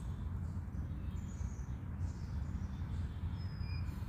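A few faint, short, high bird chirps over a steady low rumble.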